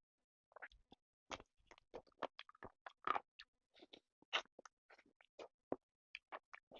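A person chewing and smacking close to the microphone while eating chicken and rice: many short, irregular mouth clicks and smacks.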